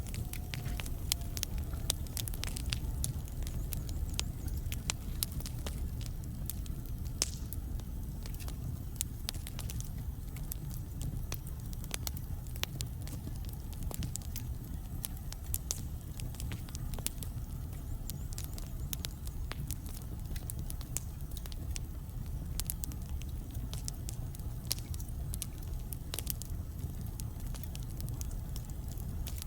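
Wood fire burning in a fireplace: logs crackling and popping in irregular sharp snaps over a low, steady rumble of the flames.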